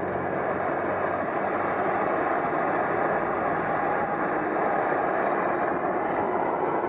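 Blowtorch flame burning steadily, heating a lump of charcoal until it turns gray for a homemade smoke machine.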